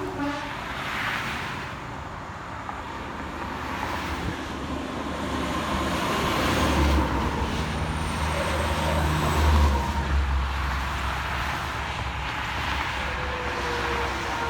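Road traffic passing, with a heavy vehicle's engine rumble growing loud about halfway through and easing off again a few seconds later.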